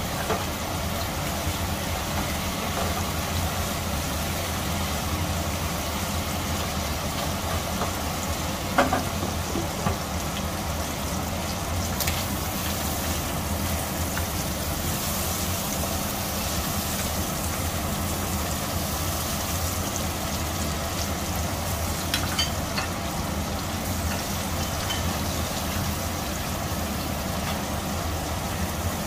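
Prawns and garlic sizzling in hot oil in a stainless steel wok, over a steady low hum. A wooden spatula knocks and scrapes against the wok a few times as the prawns are stirred.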